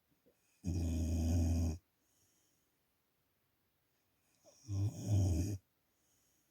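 Dog snoring in its sleep: two snores, each about a second long, roughly four seconds apart.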